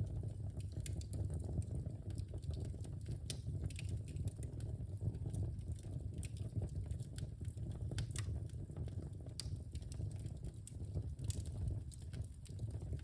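Wood fire in a fireplace burning with a steady low rumble of flames and frequent irregular pops and crackles from the burning logs.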